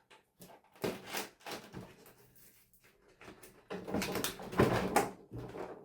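Parts of a broken television being handled during dismantling: irregular knocks, clicks and clattering, a few around a second in and busier in the second half.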